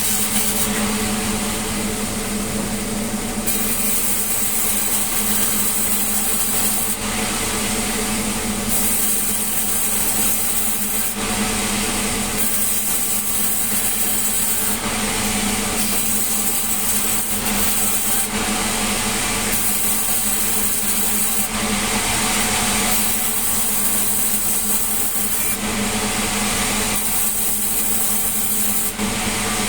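Sawmill saw running with a steady hum while it cuts melinjo wood. The high hiss of the cut rises and falls every few seconds.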